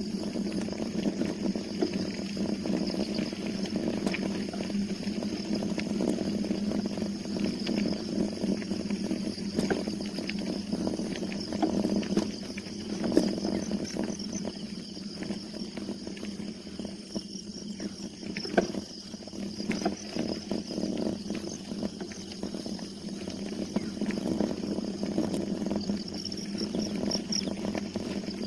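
Steady rumble and rattling from a bicycle being ridden along a road, with many small clicks and knocks. Faint high chirping comes and goes, most in the second half.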